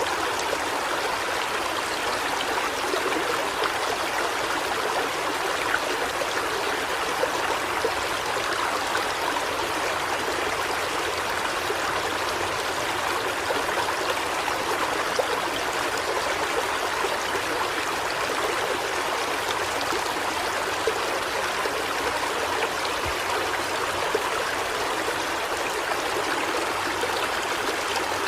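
Steady running water, a small stream trickling and splashing without a break.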